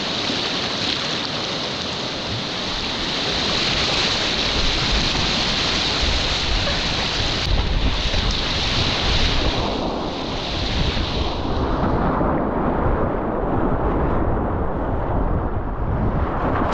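Rushing whitewater from river rapids, with wind rumbling on the microphone; the bright hiss of the rushing water eases about twelve seconds in.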